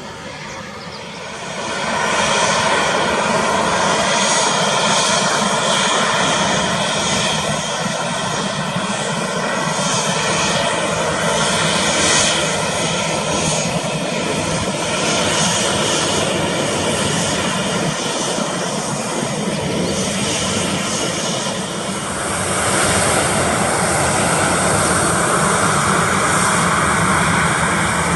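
Airliner's jet engines at take-off power: a loud, continuous jet noise with steady whining tones over it. It swells about two seconds in and again about three-quarters of the way through.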